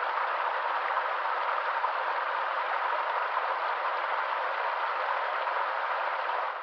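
Water of a small spring running and trickling steadily, fading out at the very end.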